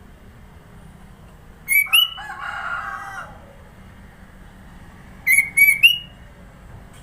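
Sooty-headed bulbul calling in two loud bursts of short, sharp whistled notes, the second burst three quick notes, with a lower warbling phrase just after the first burst.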